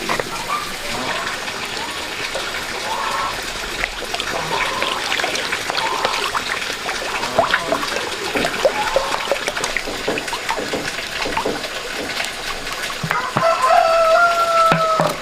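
A rooster crowing near the end, one long drawn-out call, over running, splashing water with scattered short knocks and clicks.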